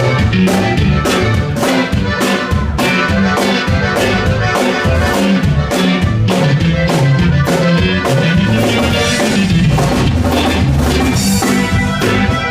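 Band music with a drum kit keeping a steady beat and a bass line stepping up and down.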